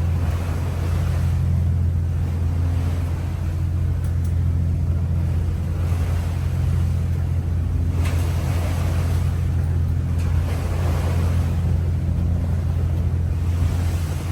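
The old trawler's engine runs steadily under way with a low drone, while rushing water and wind noise from the boat working through rough seas swells and fades every few seconds.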